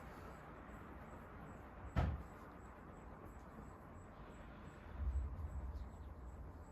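Canarm CP56 industrial ceiling fan coasting down after switch-off, a faint steady whir from blades and motor still turning on really good bearings. A single sharp knock about two seconds in, and a low rumble around five seconds.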